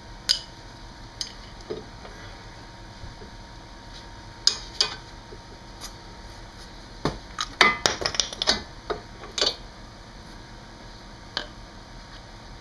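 Scattered sharp metallic clinks and knocks of a disc brake caliper, its spring and its pads being worked loose, with a quick run of several clinks a little past the middle. The caliper's retaining spring has been popped off, which lets the brake pads fall out.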